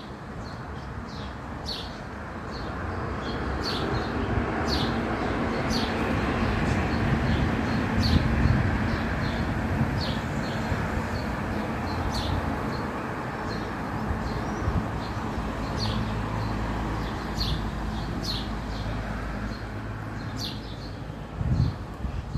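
Small birds chirping in short, irregular high notes again and again, over a steady low rumble.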